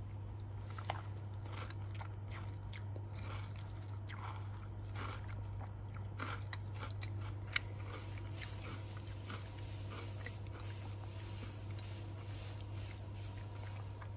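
A person chewing crunchy food close to the microphone: an irregular run of crisp crunches. A steady low hum sits under it.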